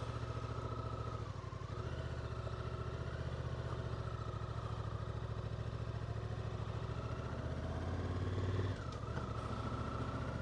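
Motorcycle engine running steadily, its note dipping briefly about a second in, then swelling slightly and dropping back about nine seconds in.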